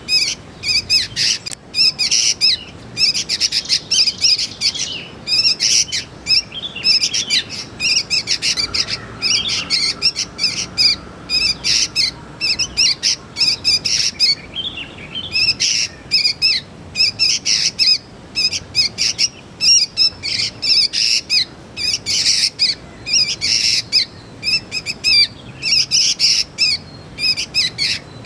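Young sooty-headed bulbul (kutilang) calling, short chirps repeated several times a second with hardly a pause.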